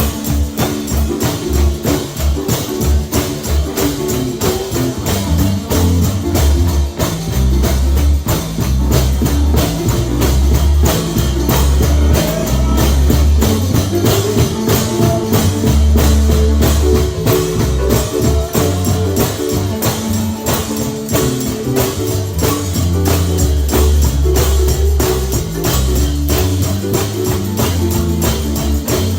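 Upbeat gospel music played live: a tambourine keeps a fast, steady beat over a moving bass line and held chords.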